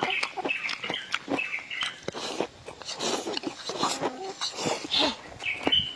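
Chickens clucking with short high calls, over the clicks and smacks of people chewing and eating.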